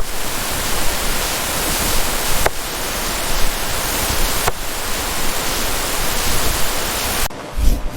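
Heavy rain, a dense steady hiss that stops abruptly near the end.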